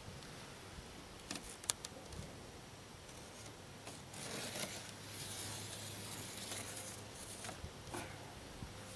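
Scraping and rubbing from foam board and tools being handled, with a few sharp clicks about a second and a half in and again near the end, and a spell of hissy scraping in the middle.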